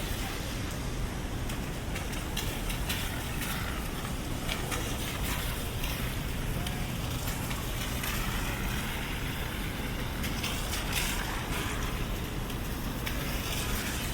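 City street ambience in the rain: a steady rumble of traffic and the hiss of a wet street, with scattered light ticks throughout.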